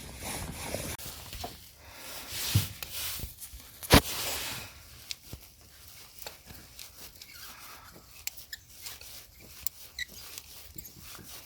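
Metal hand tools clicking and scraping while working on an engine, with one sharp clink about four seconds in and a smaller one a little before it.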